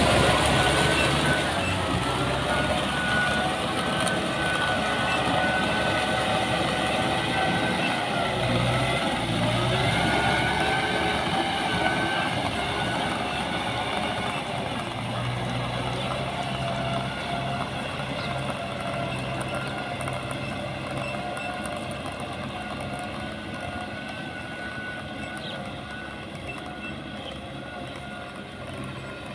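Engine of heavy farm machinery running steadily, its pitch rising and falling a little as it works, growing gradually quieter.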